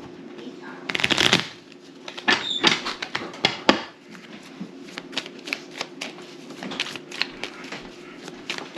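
Playing cards being handled, shuffled and laid down on a table: irregular light snaps and clicks, with a denser clatter about a second in.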